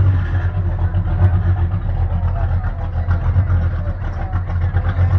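Car engine idling steadily at a classic car meet, a low even hum, with faint voices in the background.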